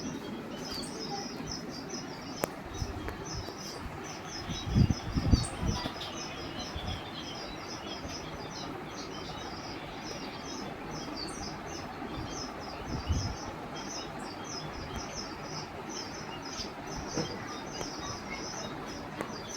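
Caged parrots chirping continuously in a rapid, high-pitched chatter. A few low thumps stand out about five seconds in and again around thirteen seconds.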